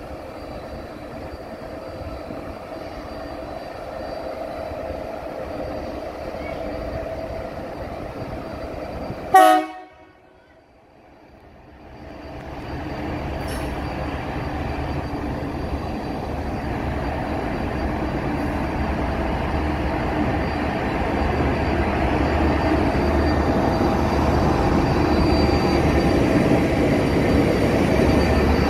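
Pacific National diesel freight locomotive approaching and drawing alongside, its engine rumble building steadily. One short, loud horn blast about nine seconds in.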